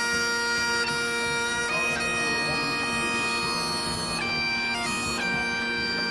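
Breton biniou braz bagpipe and bombarde playing a tune together over the bagpipe's steady drone, the melody moving between long held notes.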